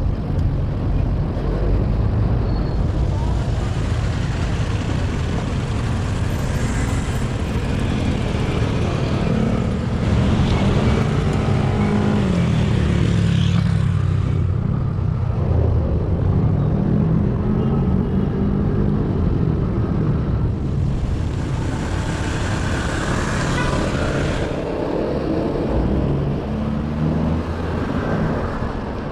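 Street traffic heard from a moving bicycle, with heavy wind rumble on the microphone throughout. Nearby vehicle engines rise and fall in pitch, and there are two long spells of hiss, one of about ten seconds and a shorter one later.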